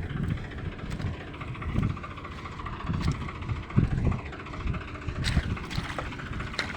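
Tractor engine running under load in mud, with an uneven low pulsing. A few sharp clicks come near the end.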